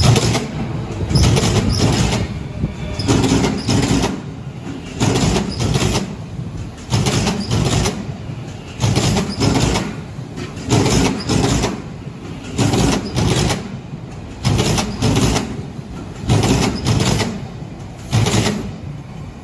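Odakyu 3000 series electric commuter train passing close by, its wheels clattering over the rail joints in a steady rhythm, a loud burst about every two seconds as each car's wheel sets cross, over a running rumble.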